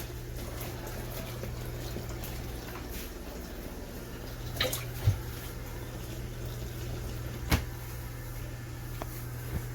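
Portable mini washing machine running: a steady low motor hum with water, and a few sharp knocks, the loudest about halfway through and again a couple of seconds later.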